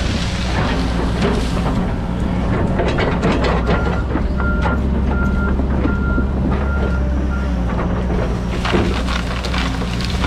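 John Deere 130G excavator's diesel engine running steadily under load, with frequent cracking and snapping of wood and brush as trees are torn out. From about four seconds in, a backup alarm beeps about six times.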